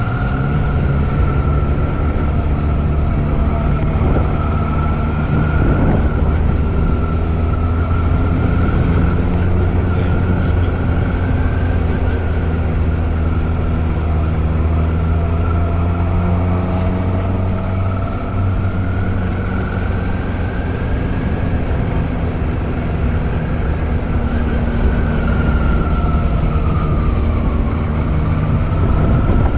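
Motorcycle engine running steadily under way, its pitch drifting slowly up and down as the speed changes.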